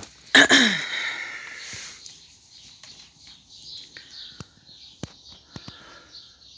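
Small birds chirping repeatedly in the trees. About half a second in there is one loud, sudden sound whose pitch falls, and a few sharp clicks follow later.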